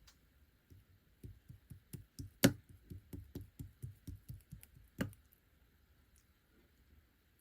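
Clear slime being pressed and kneaded by hand, giving a quick run of soft sticky clicks and pops, about four or five a second, with two sharper louder pops.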